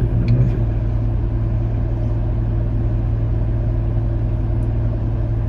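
Car engine idling steadily, heard from inside the car, with no throttle applied.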